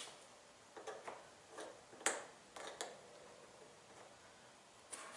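A tool knocking off the retaining tabs of a top-load washer's tub ring: a string of short, sharp clicks and knocks, the loudest about two seconds in, then a pause and one more click near the end.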